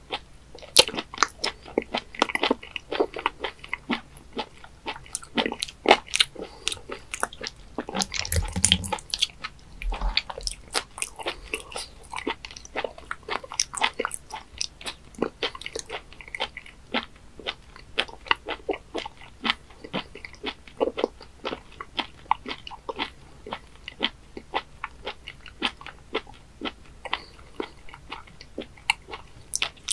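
Close-miked wet chewing of raw webfoot octopus: many irregular sticky, squelching clicks of teeth and tongue working the rubbery flesh, with one longer, louder noisy stretch about eight seconds in.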